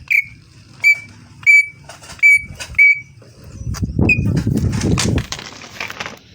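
Green leafbird (cucak ijo) calling: a series of five short, sharp whistled notes about 0.7 s apart. One more note follows about four seconds in, inside a second-long rush of low, rumbling noise.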